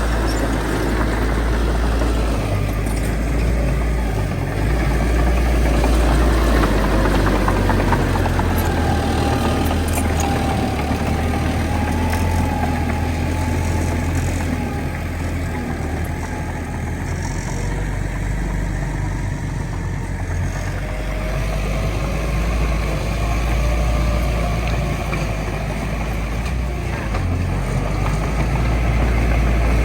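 Bulldozer's diesel engine running steadily with a deep rumble, and a faint wavering whine rising and falling above it.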